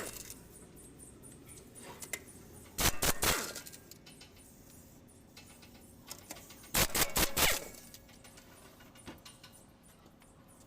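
Metal tools or parts clinking and clattering in three short bursts, about four seconds apart, with quieter workshop background between them.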